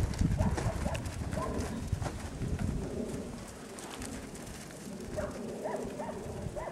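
A bird cooing in short, repeated calls, with a low rumble in the first second.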